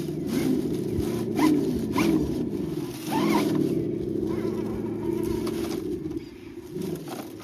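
RC scale crawler truck climbing, its onboard sound module playing a simulated engine that revs up and down in pitch several times in the first half, then drops back and quietens near the end.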